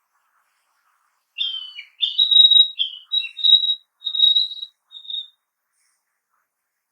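A Narcissus flycatcher singing one phrase of clear whistled notes, starting about a second and a half in and ending near five seconds, with the later notes held on one high pitch.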